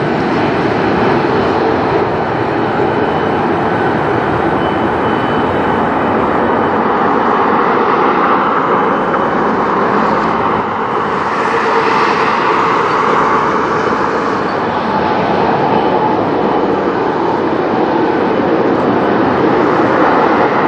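Jet airliner engines at takeoff power: a loud, steady rush of jet noise with a faint high whine, swelling a little near the middle.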